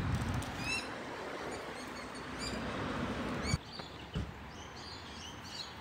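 Small birds chirping again and again over a rushing background hiss, which drops away about three and a half seconds in with a sharp knock.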